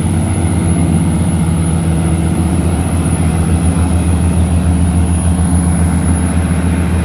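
Heavy diesel engines of river tugboats running steadily, a deep, even drone.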